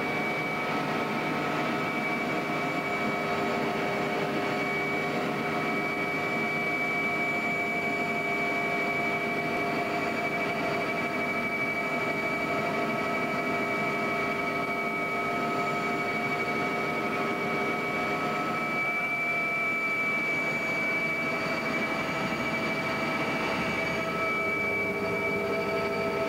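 Helicopter in steady flight: a constant mechanical din with several steady whining tones from the turbine and gearbox.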